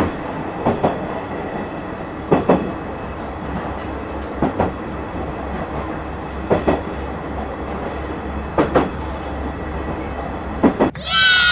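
Passenger train running along the track: a steady rumble with the wheels clacking over rail joints in quick pairs about every two seconds.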